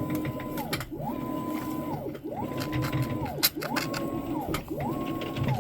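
Electric motor repeatedly spinning up and back down in a steady cycle: a whine that rises, holds briefly and falls about every second and a half, with a few light clicks.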